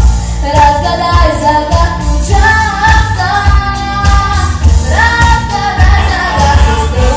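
A female voice singing a pop song over a backing track with a steady, heavy bass beat.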